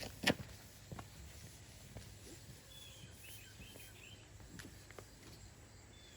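Quiet outdoor background with a low hum, one sharp knock about a quarter second in, a few faint clicks, and a short high chirping trill about three seconds in.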